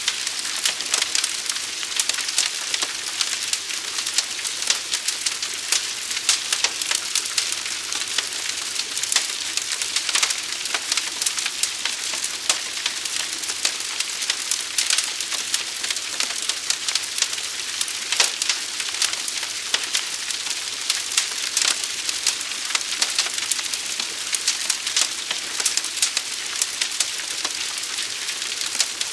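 Forest fire burning: a steady hiss with dense, irregular crackles and pops.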